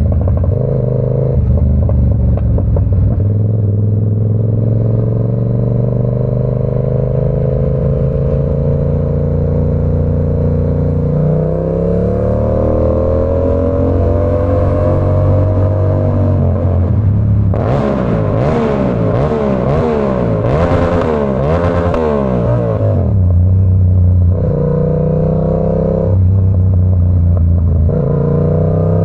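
Yamaha R7's parallel-twin engine through an SC Project CR-T exhaust, ridden at speed. It drones steadily, then rises smoothly in pitch as the bike accelerates around the middle. This is followed by about five seconds of rapid rises and falls in revs with sharp crackles from the exhaust, before settling back to a steady drone.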